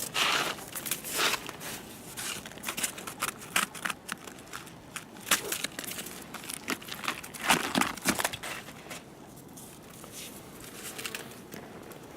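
Irregular crinkling, crackling and sharp clicks of a covering being handled and pulled off a beehive, busiest near the start and again about three-quarters of the way through.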